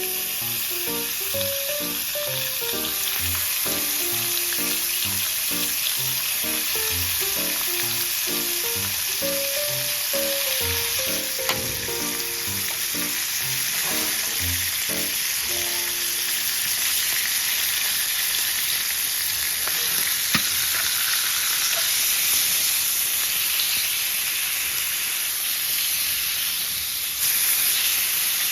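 Food sizzling and frying on a hot pan, a dense steady hiss that gets a little louder near the end. Background music with short piano-like notes plays over it for roughly the first half, then stops.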